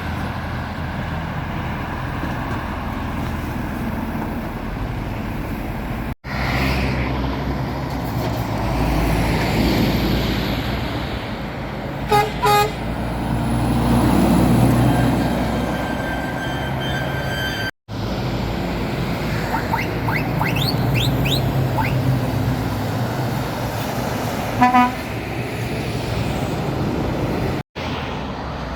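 Heavy lorries passing on a main road, engine and tyre noise swelling and fading as each goes by. A passing lorry gives two short horn toots about twelve seconds in, and another short toot sounds near the end. The sound breaks off abruptly three times where clips are joined.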